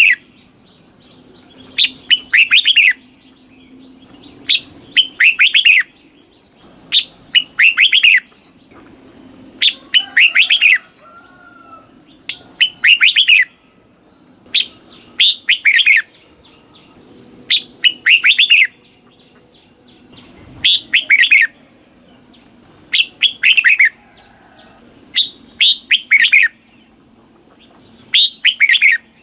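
Red-whiskered bulbul singing: short, loud phrases of quick whistled notes repeated about every two and a half seconds, eleven times.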